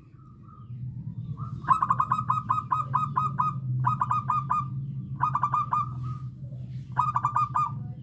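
Zebra dove (perkutut) song: four bouts of quick, evenly repeated staccato notes, the first and longest about eight notes and the rest about four each. A steady low hum runs underneath.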